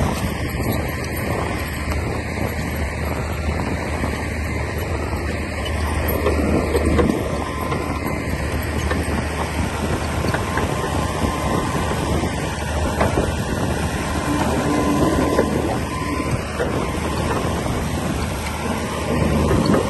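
Komatsu D60P crawler bulldozer's diesel engine running steadily, with the rattle and clank of its tracks and blade working. The noise swells briefly about a third of the way in and again near the end.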